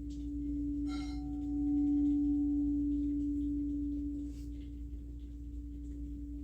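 Singing bowl sounding one steady low tone that swells and then eases off. About a second in it is struck, adding a short bright ring of higher overtones.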